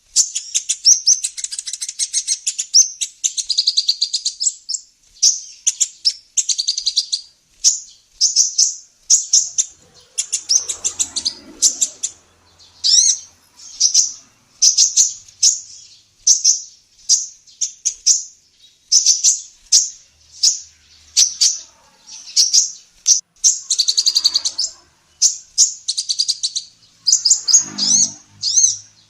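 Female olive-backed sunbird ('kolibri ninja') singing: rapid, high-pitched chirps and short trills in quick repeated phrases.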